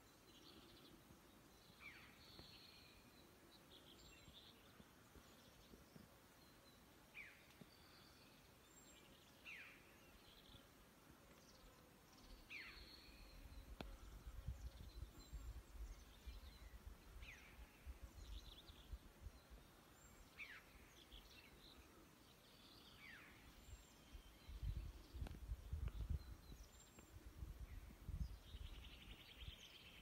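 Faint bird calls: short falling whistles repeated every two to three seconds. Low, gusty rumbling comes in on the microphone from about halfway and is loudest near the end.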